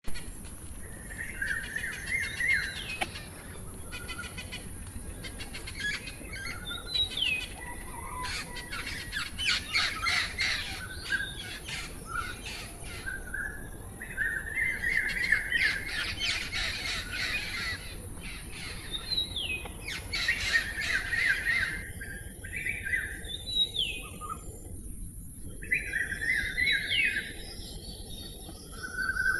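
Parrot calling: runs of quick chirps and squawks, with short sliding whistle-like calls every few seconds, the calls coming in clusters with brief pauses between them.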